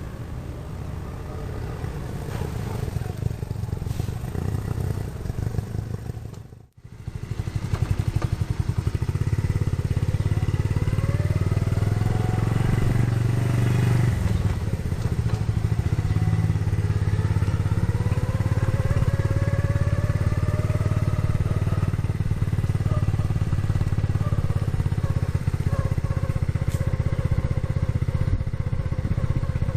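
Small Honda 70cc single-cylinder four-stroke motorcycle engine running, freshly restored. The sound breaks off for a moment about seven seconds in and comes back louder and steady, with some rise and fall in pitch a little later.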